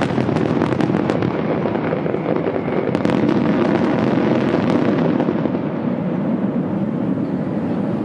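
Many fireworks shells bursting together in a dense, continuous barrage of rumbling and crackling. Sharp cracks are thick at first and thin out after about three seconds.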